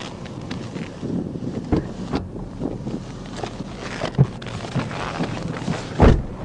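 Wind buffeting the microphone, with scattered small knocks and a louder thump about six seconds in.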